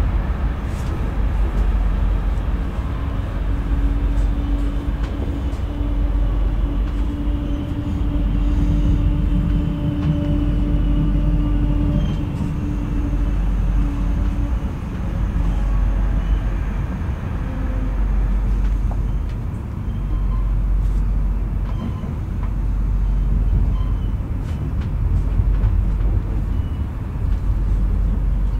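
Interior ride noise of a moving Metronom double-deck passenger train: a steady low rumble of wheels on rail. A steady hum runs underneath for about the first half and then drops away.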